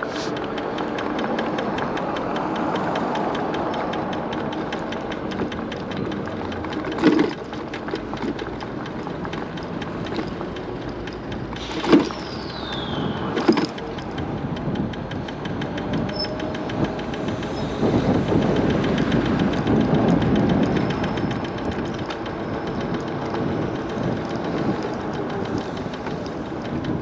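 MiniPro Mi716 electric scooter being ridden: steady road and wind noise with a fine rattle from the scooter, and sharp knocks about seven seconds in and twice more around twelve to thirteen seconds.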